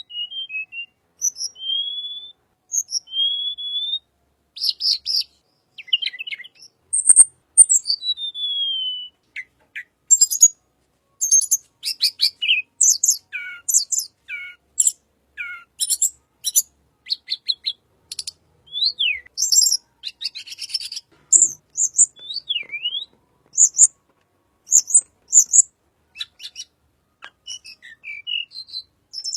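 Tledekan songbird singing an unusual, varied song. It opens with clear sliding whistles, then runs into quick high chirps, down-slurred notes and fast rattling trills in short phrases with brief gaps between them.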